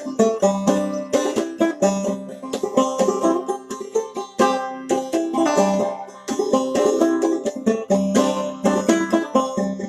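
Solo clawhammer banjo playing a traditional old-time tune as a steady, unbroken run of plucked notes.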